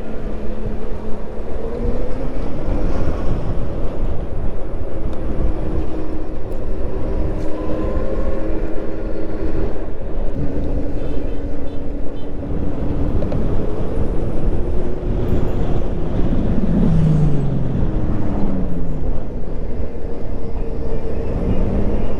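Steady rush of wind and road noise from riding an electric moped in traffic, loud and unbroken. Faint pitched whines slowly rise and fall under it, with one falling in pitch a little after the middle.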